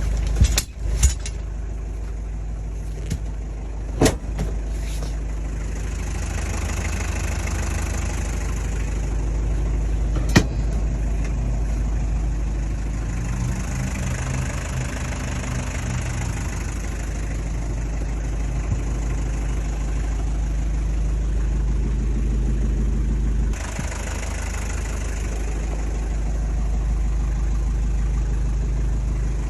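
Mazda Bongo Brawny fire truck's R2 diesel engine idling steadily, with a few sharp knocks in the first seconds and one about ten seconds in; the engine note shifts a few times along the way.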